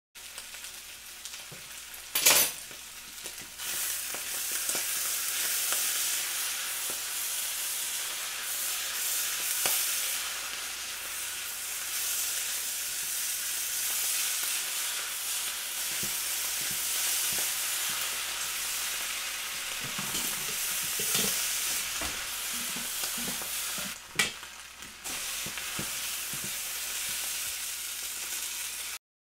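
Fried rice sizzling steadily in a hot wok while it is stirred and tossed with a spatula. There is one sharp knock of the utensil on the pan about two seconds in, and a few lighter knocks later on.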